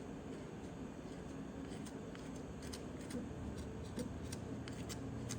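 Faint scattered clicks and light scraping of a small hand tool working epoxy into the seal groove of a propeller shaft, over a low steady hum.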